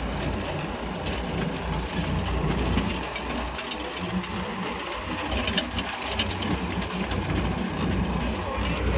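Tractor diesel engine running steadily, with scattered clicks and rattles.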